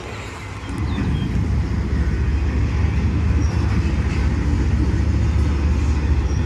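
Steady low rumble of an approaching freight train's diesel locomotives.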